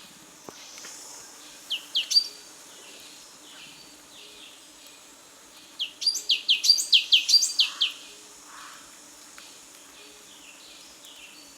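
Black-capped donacobius singing loud, high, sliding notes: a short three-note phrase about two seconds in, then a fast run of about ten downward-sliding notes near the middle, over a faint background chorus.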